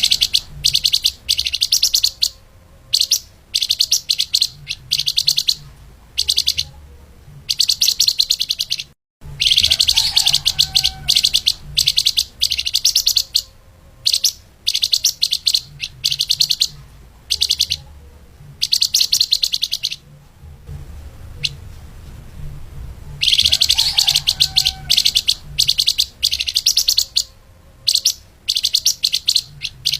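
A flamboyan (lemahan) songbird sings a fast, tightly packed, high-pitched chattering song in repeated bursts of a second or two, with short pauses between them. The sound cuts out for an instant about nine seconds in, and a low hum runs underneath.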